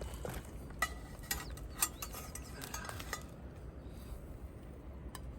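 Metal utensils clinking and scraping against cookware, a few sharp ringing clinks in the first three seconds, then quieter handling.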